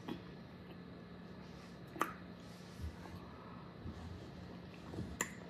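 Quiet room tone with a steady low hum, broken by a few soft clicks and small handling noises.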